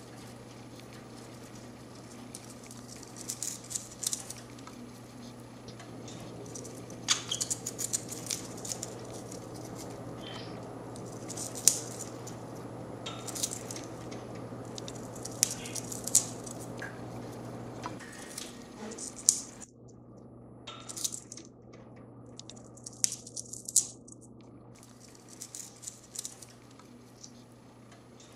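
Budgerigar's beak nibbling and biting hard, making irregular small clicks and scratchy crackles. A steady low hum underneath stops about two-thirds of the way through.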